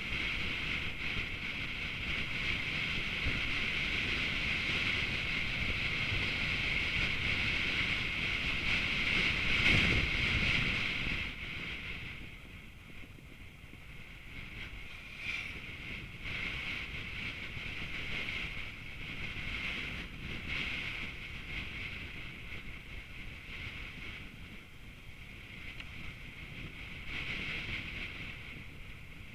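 Steady wind and road noise from a moving vehicle. It is louder for the first ten seconds or so, peaks briefly, then drops to a lower level.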